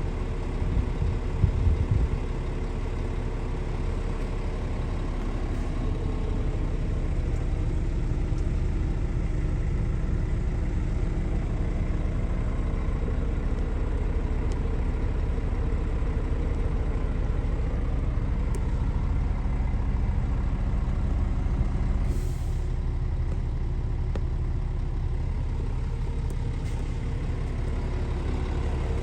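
Scania S500's V8 diesel engine idling steadily, with a few sharp knocks near the start and a short hiss of air about three quarters of the way through.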